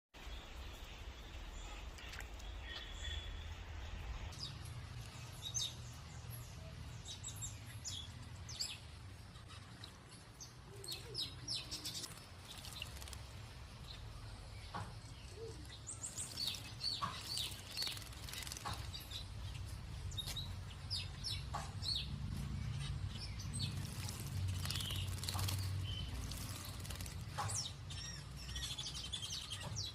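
A bird chirping: many short, high chirps in irregular runs, busiest in the second half, over a steady low rumble.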